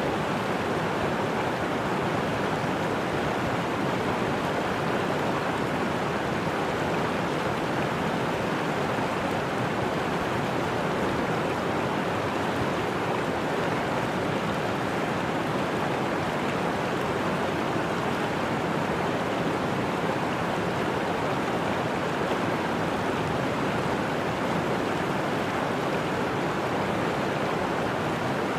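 Steady rush of fast-flowing floodwater, an even unbroken noise that holds the same level throughout.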